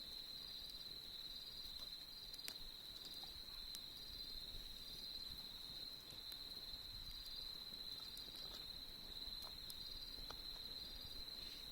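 Autumn crickets trilling steadily on one high pitch, with a second insect chirping in short repeated pulses just above it. Now and then a single sharp crackle from the campfire.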